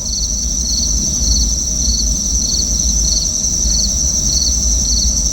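Outdoor insect chorus of crickets: a steady high-pitched trill with a pulsing chirp repeating a little under twice a second, over a low rumble.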